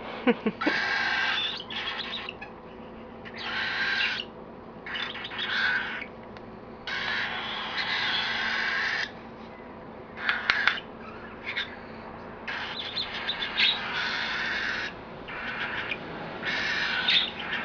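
Baby cockatiel giving harsh, raspy food-begging calls while being spoon-fed, repeated bursts of about a second or two each, with a few sharp clicks in between.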